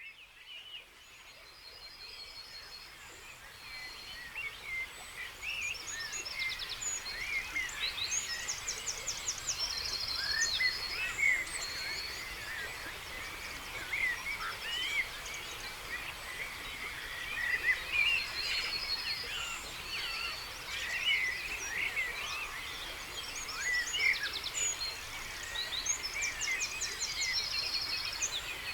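Dawn chorus: many songbirds singing at once, a dense tangle of overlapping chirps and whistles with rapid high trilled phrases repeating every so often. It fades in over the first few seconds.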